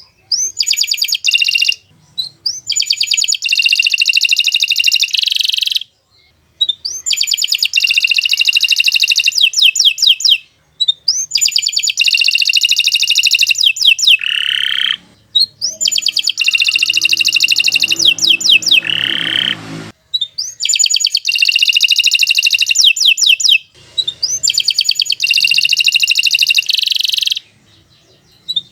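Domestic canary singing long, fast trilling song phrases. About seven phrases, each a few seconds long, come one after another with short breaks between them.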